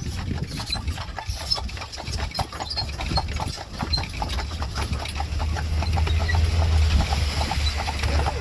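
Horse's hooves clip-clopping steadily on the road as it pulls a buggy, over a low rumble that grows louder in the second half.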